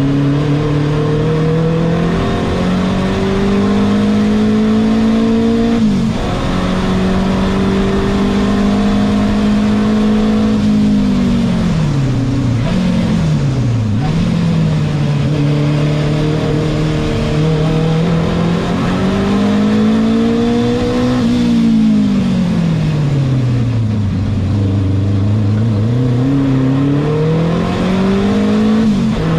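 Renault 5 Turbo 2's mid-mounted turbocharged four-cylinder engine heard from inside the cabin at racing speed. Its note climbs under acceleration and drops sharply at a gear change about six seconds in and again near the end, and falls and rises several more times as the car brakes and accelerates through corners.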